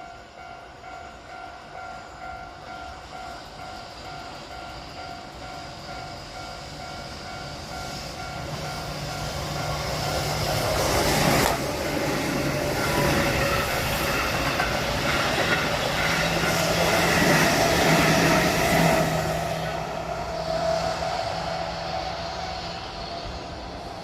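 A Japanese level-crossing alarm ringing steadily with its repeating tones. A liner express train approaches, passes loudly through the crossing between about 8 and 20 seconds in, and then fades away.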